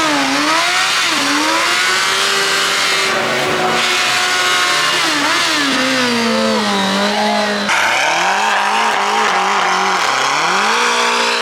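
A car engine revved hard over and over, its pitch climbing and dropping, with a sharp rise in pitch about two-thirds of the way through and again near the end.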